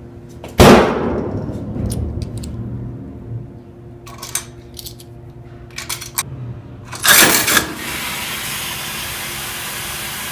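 A loud thump about half a second in that rings off, a few light clicks and knocks, a second loud clatter about seven seconds in, then a steady hiss over a low hum.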